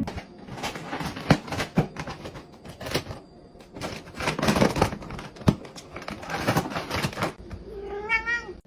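Irregular sharp clicks and taps with crinkling, as of small hard objects or paper being handled, ending in a short rising pitched call.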